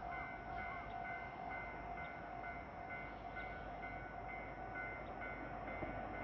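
Warning bell ringing in a steady, repeating on-off pattern, over the low rumble of an approaching JR Hokkaido 789 series limited express train.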